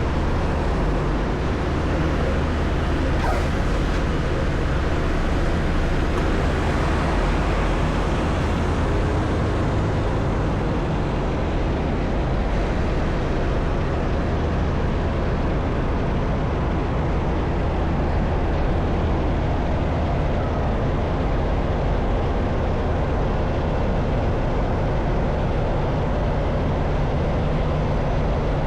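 Semi-truck's diesel engine running steadily with an even low drone.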